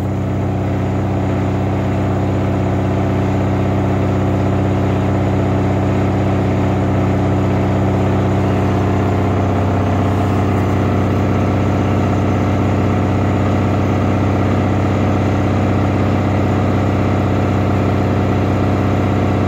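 Samsung washing machine running with a loud, steady low hum, loud enough to drown out conversation. The noise comes with heavy vibration that shakes the whole house.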